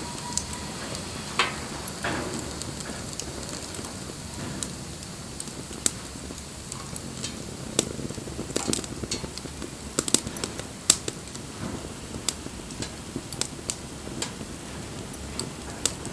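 Wood bonfire crackling: irregular sharp pops and snaps over a steady low rumble, busiest a little past the middle.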